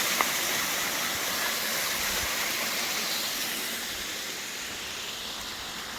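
Small waterfall rushing steadily, gradually growing fainter.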